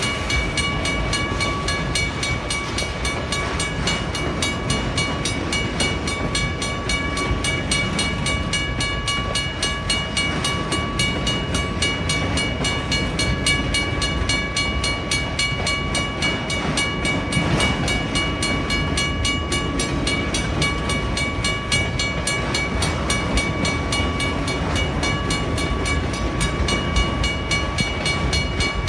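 A WRRS mechanical crossing bell ringing steadily with rapid, even strokes, over the low continuous rumble of a train rolling through the crossing.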